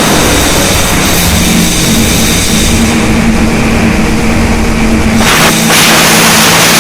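Harsh noise music (noisecore): a loud, dense wall of distorted noise with a low buzzing drone. About five seconds in it switches to a brighter, harsher hiss over a steady low hum.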